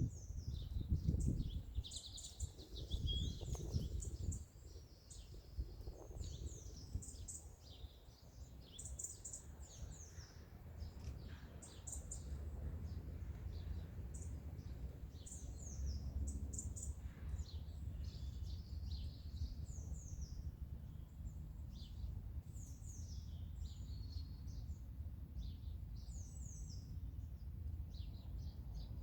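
Wild songbirds chirping and singing in many short, high, quickly repeated notes over a steady low rumble. A sharp knock comes right at the start, and the rumble is heavier for the first few seconds.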